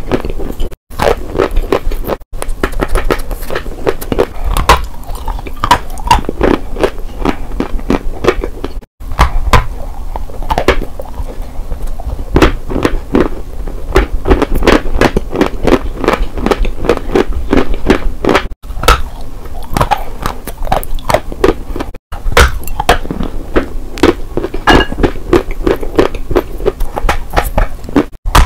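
Close-miked biting and chewing of chalk bars dipped in clay paste: a dense run of crisp crunches, broken by a few brief silent gaps.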